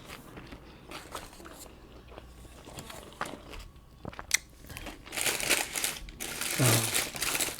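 Close-miked eating: scattered bites and chewing clicks, then dense paper-wrapper crinkling from about five seconds in.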